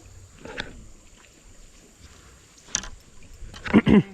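Creek water splashing in a few short bursts, the loudest near the end, as a small hooked fish is pulled through the surface.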